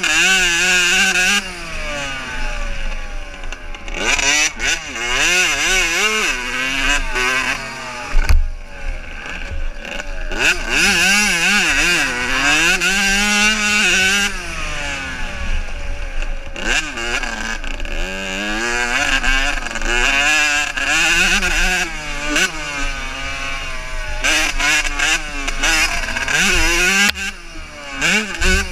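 Several motocross bikes' engines revving hard, their pitch rising and falling over and over as they accelerate and shift, with more than one engine heard at once. A brief low thump comes about eight seconds in.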